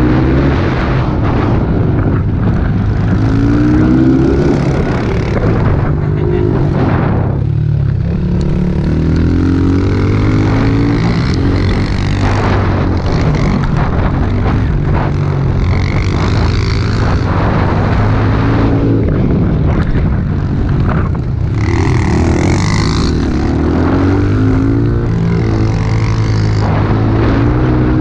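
Small pit bike engine running hard, its pitch climbing and dropping again and again as it revs up, shifts and rolls off the throttle, with a constant rush of wind and riding noise.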